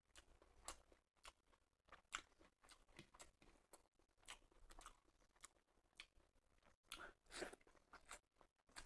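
A person chewing and eating a meal of rice, dal and curries: faint, irregular crunching and mouth clicks, several a second, with no steady rhythm.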